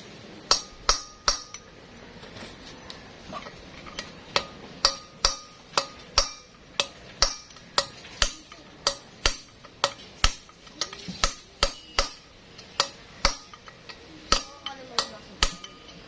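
A hammer striking a long bolt used as a drift against a worn wheel bearing, knocking it out of an alloy wheel hub. Sharp metallic strikes, each with a brief ring, come about twice a second, with a short pause about two seconds in.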